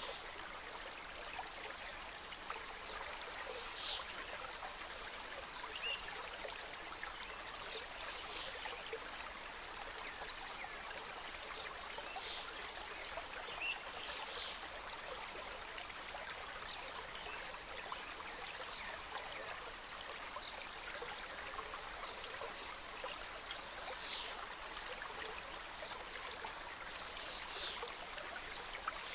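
Small mountain stream cascading over rocks: a steady rushing and trickling of water, with now and then a brief brighter splash.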